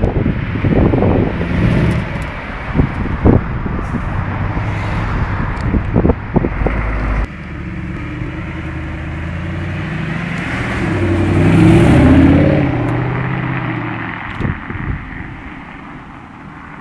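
Mercedes SLS AMG's naturally aspirated V8 running, growing steadily louder to a peak about twelve seconds in and then fading away. For the first several seconds, rustling and knocks on the microphone lie over it.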